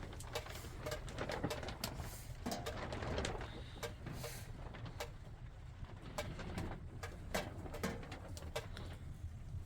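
Birds cooing repeatedly, with many sharp clicks and knocks throughout.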